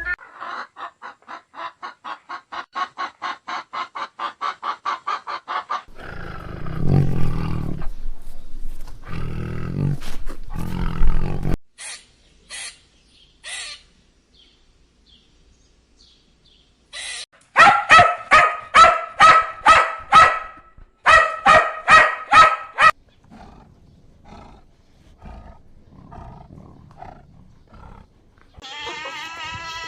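A string of different animal calls in turn. A fast run of pitched pulsed calls gives way to a low roar, then sparse clicks, then a loud run of rhythmic calls at about three a second, and fainter calls near the end.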